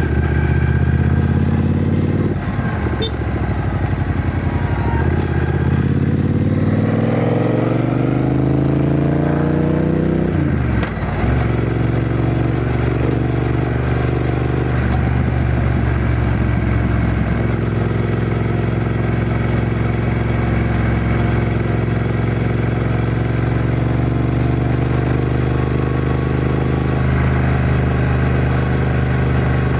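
Triumph Bonneville T120's 1200 cc parallel-twin engine on the move: it climbs through the revs for several seconds, drops sharply at a gear change about ten seconds in, then runs steadily with a slight rise near the end.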